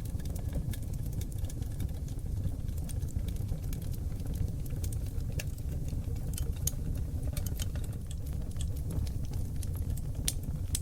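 Seasoned oak logs burning in a wood fireplace: a steady low roar of flames under frequent sharp crackles and pops, with clusters of brighter pops around the middle and again near the end.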